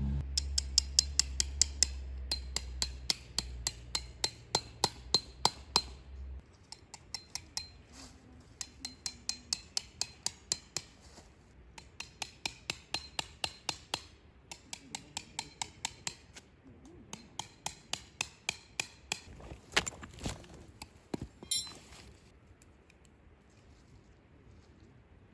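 Runs of sharp metallic strikes, about four a second with short pauses between runs, like a hammer driving metal tent pegs into the ground. A low rumble sits under the first six seconds.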